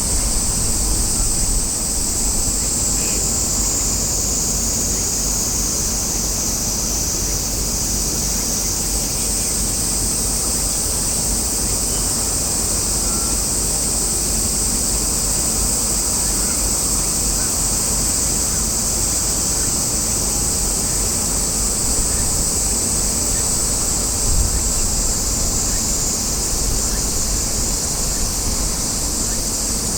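Cicadas droning steadily in a high, slightly wavering band, over a constant low rumble of wind on the microphone.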